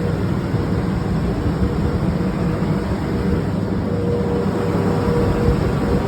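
Steady rumble of airport ramp machinery, such as an aircraft's auxiliary power unit or a ground power cart, with a thin steady whine that fades out and returns about four seconds in.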